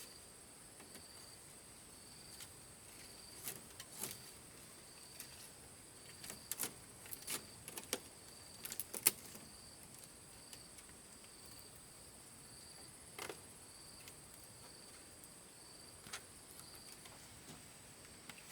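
Faint insects chirping: a steady high trill with a second high chirp that pulses about once a second. Scattered light clicks and taps come through, most of them in the first half.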